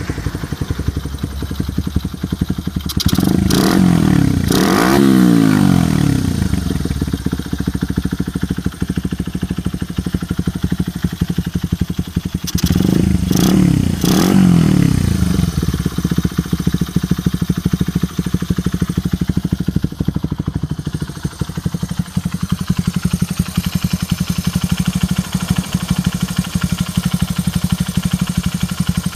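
Honda Ape 50 single-cylinder four-stroke engine idling, with two quick throttle blips about 3 seconds in and two more about 13 seconds in, the pitch rising and dropping back to idle each time.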